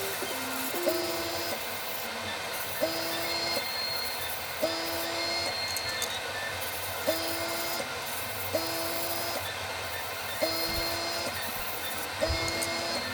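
Small hobby air compressor running while an airbrush is triggered in short bursts, about every two seconds. Each burst starts with a click and brings a brief change in the hum and hiss as air and lacquer thinner are sprayed through to clean the airbrush.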